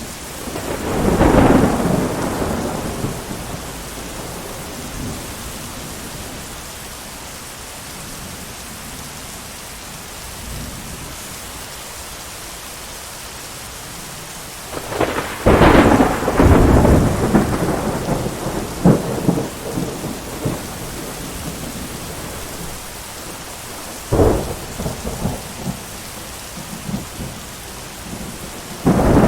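Thunderstorm: steady rain under rolling thunder, with a rumble about a second in, a long, loud peal about halfway through, a sharp clap a few seconds later, and another peal starting right at the end.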